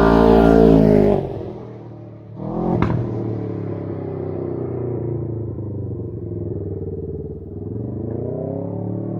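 Can-Am Ryker 600 engine running through a Brannon King muffler with a silencer baffle in the header pipe. It holds high revs and then lets off about a second in. A sharp knock follows near three seconds, then the engine runs at lower revs and picks up again near the end.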